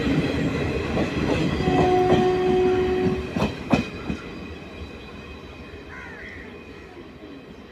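Passenger train coaches rolling slowly past on steel rails, with a brief steady wheel squeal about two seconds in. Two sharp clacks follow as the last coach's wheels cross a rail joint, and the rumble then fades as the train moves away.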